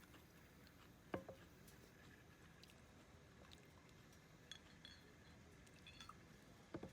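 Near silence with a few faint clicks and light knocks: one sharp knock about a second in and a double knock near the end.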